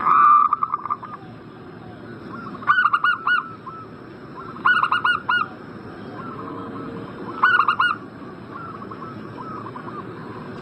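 Zebra doves (perkutut) cooing in four loud bursts of rapid, short, arched coos about two to three seconds apart, with fainter coos in between. A steady hiss lies underneath.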